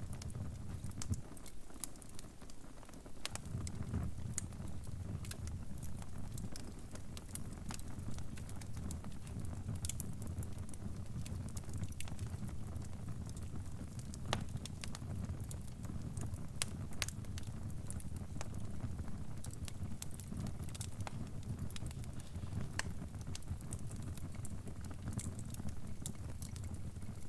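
Crackling fire: a steady low rumble of burning with frequent sharp pops and snaps.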